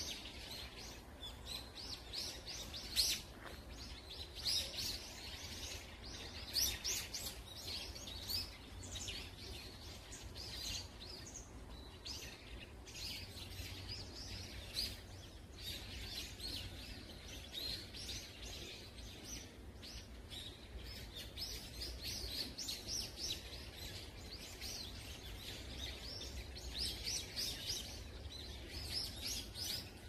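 Many small birds chirping and calling together, a dense chatter of short high chirps with no pause, over a low steady rumble.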